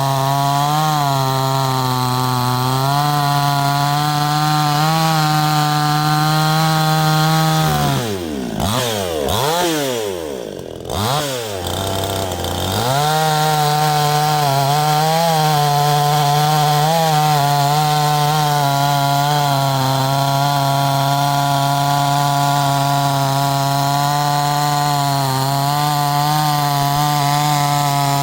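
Neotec 62cc two-stroke chainsaw running at full throttle, cutting through a log. About a third of the way in it drops toward idle and is revved up and down a few times, then goes back to full throttle and cuts steadily again.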